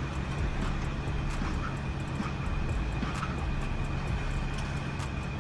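Heavy truck running steadily: a low, even engine drone with a faint, constant high whine and scattered light clicks.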